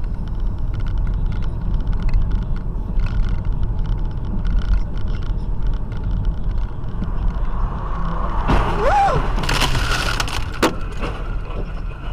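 Steady engine and road rumble of a car heard from inside its cabin. About eight and a half seconds in comes a short squeal that rises and falls in pitch, then a loud, harsh burst of noise lasting under a second, and a single sharp knock just after.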